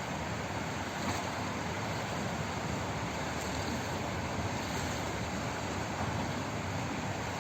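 Steady rushing of flowing water, an even hiss with no distinct splashes or drips.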